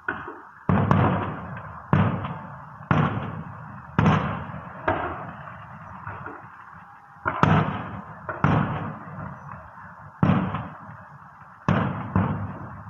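Aerial fireworks shells from an electronically fired display bursting, about ten bangs a second or so apart, each fading away over about a second, with a short lull in the middle.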